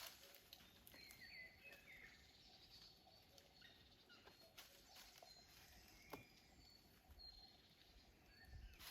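Near silence with faint bird chirps, a short cluster about a second in, and a few faint clicks.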